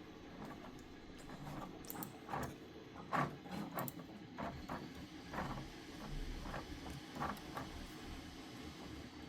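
3D printer at work, its stepper motors buzzing through short, irregular moves with brief changes in pitch over a low steady hum.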